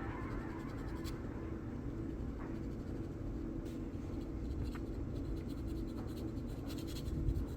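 Faint scratching and scraping with a few light clicks, over a low steady hum.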